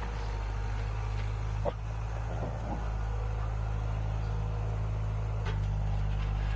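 Engine of a heavy machine running steadily with a low drone, with a single sharp knock a little under two seconds in and a change in the engine note about five and a half seconds in.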